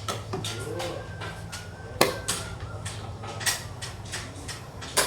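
Wooden xiangqi pieces clacking as they are moved and slapped down on the board: a string of sharp clicks and knocks, the loudest about two seconds in and again at the very end.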